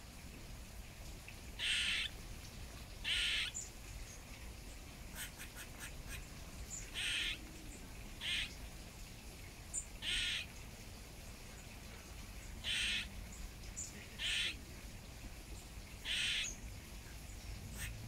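A bird's harsh calls, eight of them at irregular gaps of one to four seconds, with a few brief high chirps in between.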